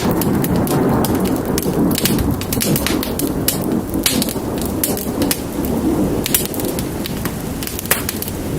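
Steady rain with a low, continuous rumble of thunder, mixed with the sharp, irregular pops and crackles of a fire.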